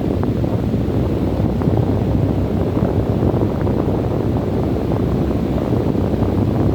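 Desert wind blowing steadily, a dense low-pitched noise with no gusts or lulls, with faint scattered ticks over it.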